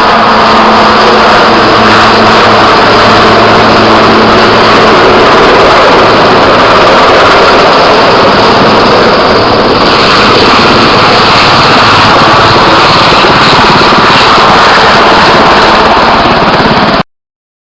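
A loud engine running steadily under a dense rushing noise, with a low hum that fades out about five seconds in. The sound cuts off abruptly near the end.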